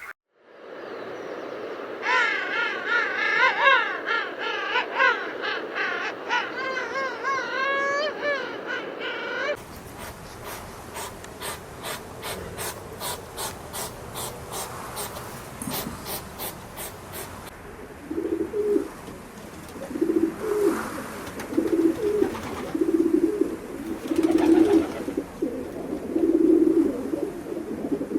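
Bird calls: first a warbling song of rising and falling whistles, then a fast run of even clicks, then a series of short, low calls repeated about once a second.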